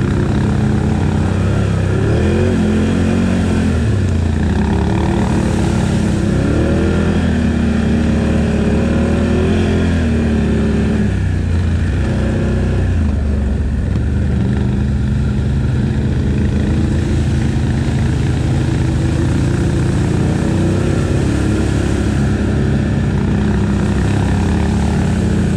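ATV engine running under load as the quad is ridden, revving up and down in pitch several times, easing off briefly near the middle.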